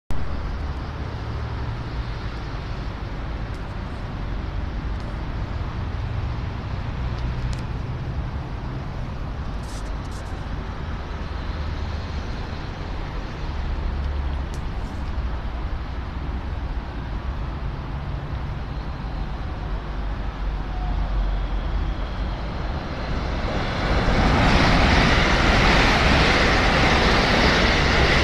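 Steady low rumble of station and town background. About 24 s in, a JR West electric commuter train enters the station on the nearest track and its wheel-and-rail noise rises sharply and holds.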